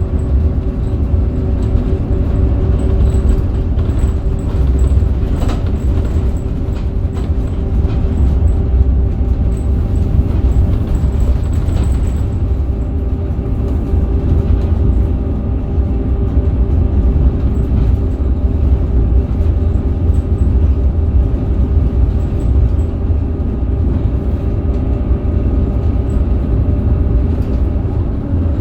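Scania K270UB bus with its Scania DC9 five-cylinder diesel and ZF Ecomat automatic gearbox running at a steady speed: a constant engine drone and low road rumble with a steady hum that holds its pitch, and a few light knocks.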